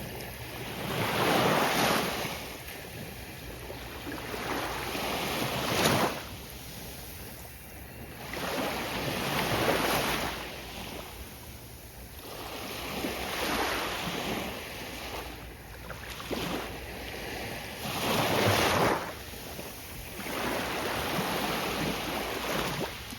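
Ocean waves breaking on a beach one after another, the surf swelling and washing back about every four seconds.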